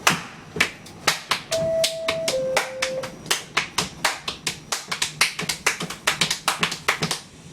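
Rapid, uneven sharp clicks, several a second, that sound like a horse's hooves clopping. About one and a half seconds in, a short steady tone steps down to a second, lower note.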